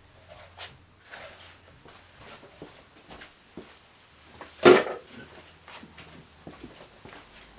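Hand tools and metal parts being handled during an ATV strip-down: scattered light clicks and knocks, with one loud knock a little past halfway.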